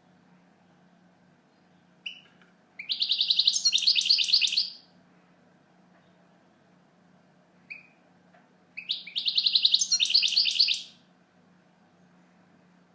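European goldfinch singing: two phrases of rapid, high twittering song, each about two seconds long and each led by a short single note.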